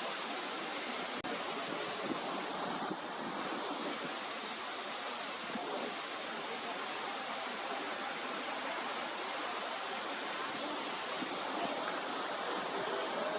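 Steady rushing outdoor noise, even and unbroken, with no distinct calls.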